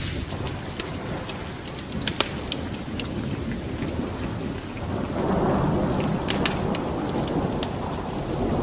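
Wood fire burning in a fireplace: scattered sharp crackles and pops over a low rush of flame that swells louder about halfway through.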